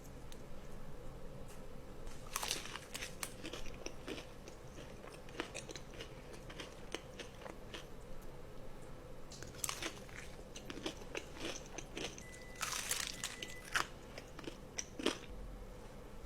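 Close-miked crunchy food being bitten and chewed, with crackly crunches that come in bursts: a few seconds in, again around ten seconds, and most densely around thirteen seconds.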